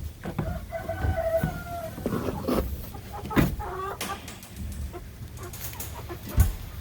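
Chickens calling and clucking as they are being caught, with one drawn-out call about a second in and a shorter one past three seconds. A few sharp knocks come at the start and near the end.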